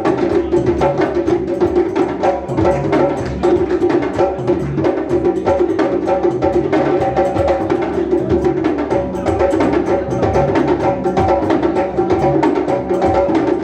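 Live band music with prominent percussion: a dense run of quick drum hits over sustained instrumental tones, with no singing.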